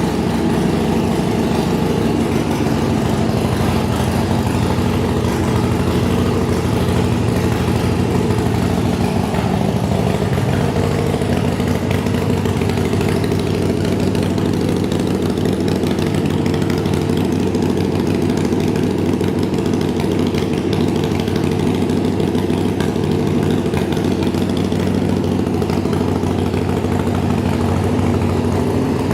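A custom motorcycle's 120-cubic-inch Ultima V-twin engine idling steadily.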